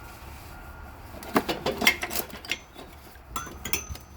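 Metal clinks and clicks of a brake pad and its curved spring clip being worked into the rear caliper bracket by hand, in two clusters of sharp taps.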